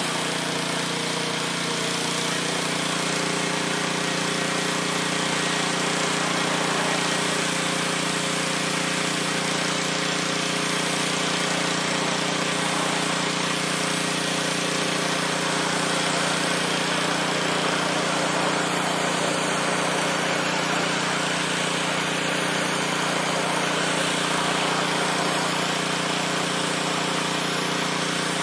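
Pressure washer running steadily: a constant motor hum under the hiss of the high-pressure water jet spraying brick.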